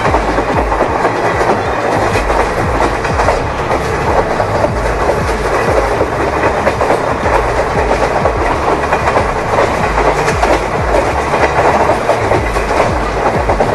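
A train running along the track: the steady rumble and clickety-clack of the carriages' wheels.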